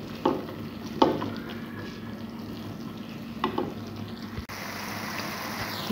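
Chana dal sizzling gently in oil in a metal pan on a low flame while a slotted spatula stirs it, scraping and clicking against the pan a few times.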